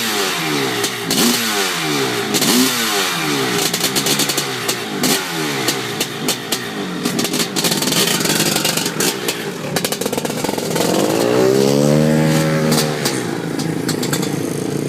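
Yamaha two-stroke dirt bike engine revving in quick throttle blips about once a second, then one longer rev that climbs and falls away near the end.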